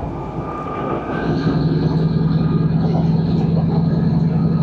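Class 150 diesel multiple unit running, heard from inside the carriage: a steady rumble with a low hum that grows louder about a second in and then holds.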